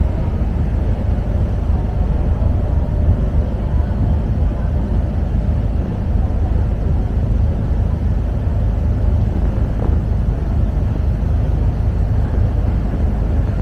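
Steady low rumble of a passenger ferry's engines, heard on board while it is under way.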